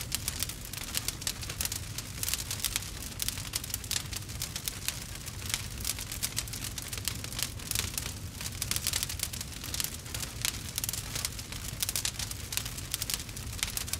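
Campfire burning with dense, rapid crackling and popping over a low rumble.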